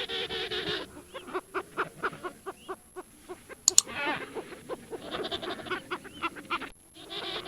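Animal calls: a bleat-like call ends about a second in, followed by a run of short, rapid chirping calls with a sharp click near the middle.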